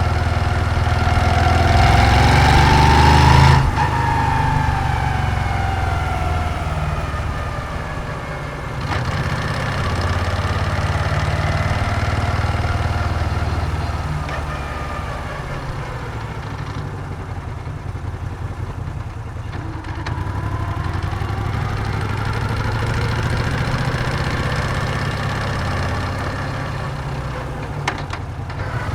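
Moto Guzzi V7's air-cooled transverse V-twin under way. The revs climb for the first few seconds, drop sharply about three and a half seconds in as the throttle closes, then ease down, build again in the middle and fall off toward the end.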